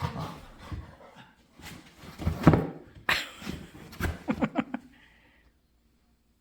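A dog making a string of short vocal noises, the loudest about halfway through, with a quick run of short sounds near the end before it stops.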